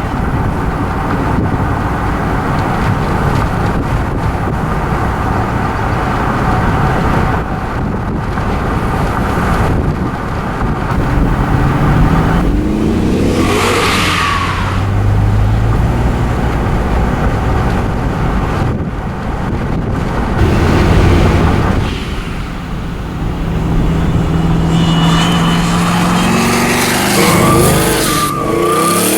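Twin-turbo Dodge Challenger SRT8's Hemi V8 running on the move, with several throttle runs where the engine note climbs in pitch, the clearest about halfway through and again near the end.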